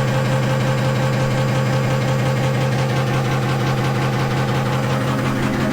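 Old Hotpoint washing machine running, its motor humming steadily under a fast, even rattle from the drum, with a weight in the drum pushing the machine to destruction.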